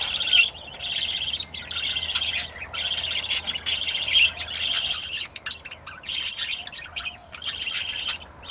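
Budgerigars chirping in short raspy bursts, about a dozen in a nearly even rhythm of a little more than one a second.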